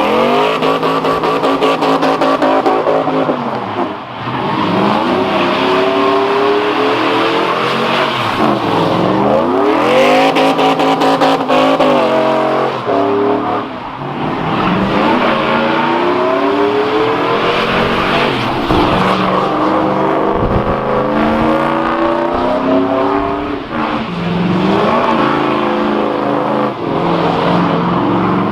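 Car engine revved hard and repeatedly during a burnout, its pitch climbing and falling back again and again, over a steady hiss of spinning tyres.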